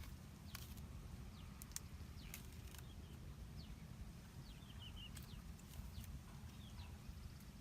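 Small birds chirping and calling in short falling whistles and brief trills, with a few sharp clicks and a low steady rumble beneath.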